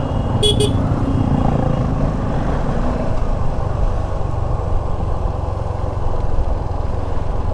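Motorcycle riding on a hill road, heard from the rider's helmet mic: steady engine rumble mixed with wind and road noise. Two short beeps, like a quick double toot of a horn, sound about half a second in.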